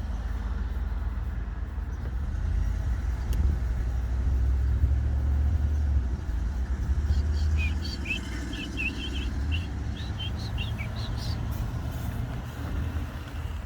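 A bird calling in a quick run of short, high chirps about halfway through, over a steady low rumble.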